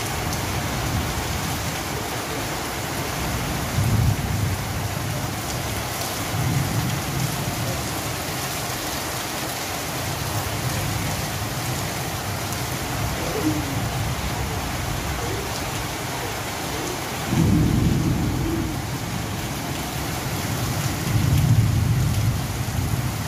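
Steady rain falling on corrugated tin roofs, an even hiss, with a few brief low rumbles, the strongest about three-quarters of the way in.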